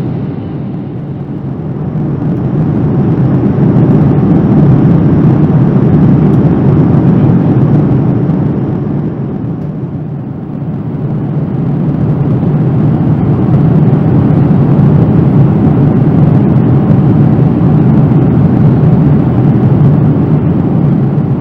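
Airliner cabin noise in a Boeing 787-9 in flight, with its Rolls-Royce Trent 1000 engines and airflow making a steady low roar. The roar eases slightly twice, about a second in and about ten seconds in, and swells back each time.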